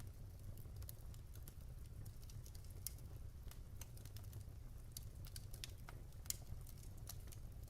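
Wood fire burning in a fireplace: irregular crackles and pops from the logs over a low, steady rumble of the flames, with one sharper snap about six seconds in.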